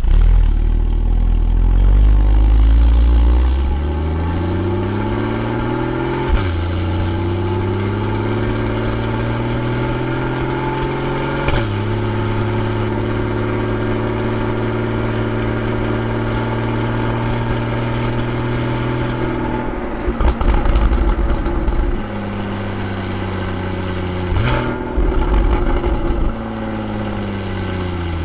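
Porsche 981 Boxster's 2.7-litre flat-six exhaust as the car pulls away and accelerates. The engine note climbs and drops back at two upshifts, about six and twelve seconds in, then holds steady at a cruise. Near the end there is a sharp rev blip, and then the note falls as the car slows.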